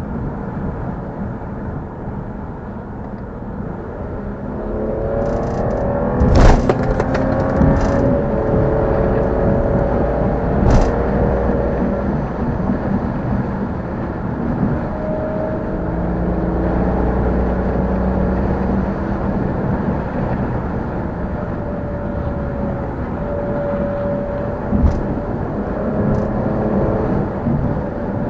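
Car engine accelerating, its pitch climbing over a couple of seconds to a sharp crack about six seconds in, then pulling steadily with another crack about eleven seconds in and a few smaller ones near the end.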